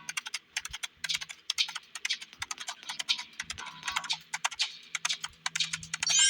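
Quick, irregular light clicks and taps over faint background music.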